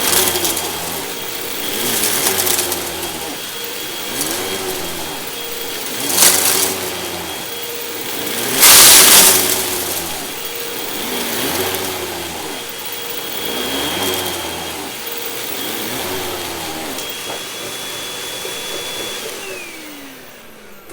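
Hoover WindTunnel 2 Rewind upright vacuum cleaner running over carpet, its brush-roll belt worn and due for replacement. Its motor whine swells and fades about every two seconds as it is pushed back and forth, with two louder rushes of air around six and nine seconds in. Near the end the motor is switched off and winds down, falling in pitch.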